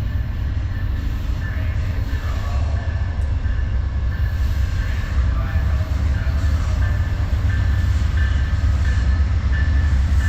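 Amtrak California Zephyr passenger train arriving: a steady low rumble that grows slightly louder. Over it are short high squealing tones, which settle into a regular repeat about twice a second toward the end.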